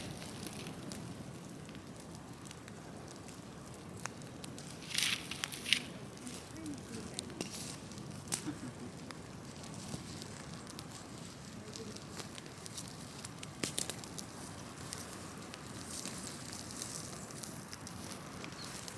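Large open fire of cut trees and wood burning: a steady hiss with sharp crackling pops, a few louder pops about five seconds in.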